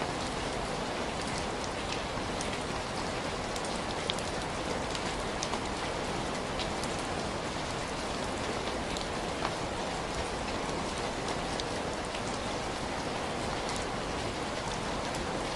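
Steady rain falling on a surface, an even hiss with scattered light ticks of individual drops.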